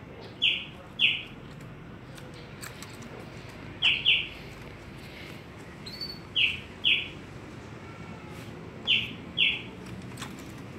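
A pet bird calling in short two-note chirps, each pair a quick double call repeated four times, a couple of seconds apart, with a few faint ticks in between.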